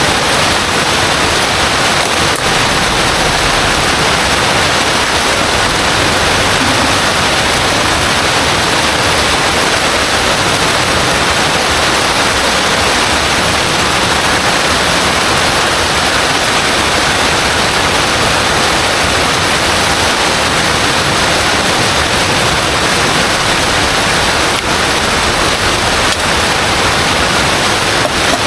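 Heavy rain falling in a loud, steady hiss.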